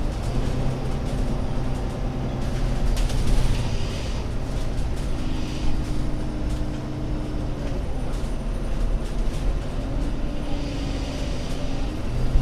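Alexander Dennis Enviro500 MMC Euro 6 double-decker bus under way: a steady low engine drone with a whine that holds one pitch, falls away about eight seconds in, then climbs again near the end as the bus's speed changes.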